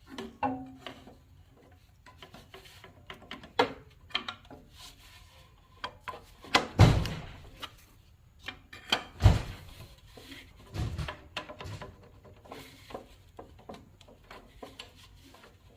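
Hand tools and metal parts being handled while working on a tractor's shift linkage: scattered clicks, light scrapes and small metal knocks, with two heavier thumps in the middle.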